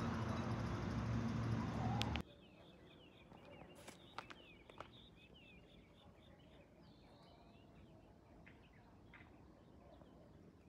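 A JR 211 series electric train standing at the platform gives off a steady low hum, which cuts off abruptly about two seconds in. Then comes quiet outdoor ambience with faint small-bird chirps and a few light clicks.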